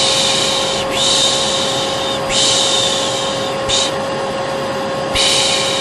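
A person shushing 'shh, shh' in long hissing strokes of about a second each, one after another with a brief short one and a pause of about a second and a half before the last, over a steady vacuum cleaner hum with a constant whine.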